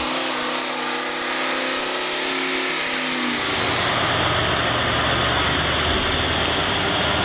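Heavy truck engine running: a steady engine note that changes about three and a half seconds in to a rougher, noisier engine sound.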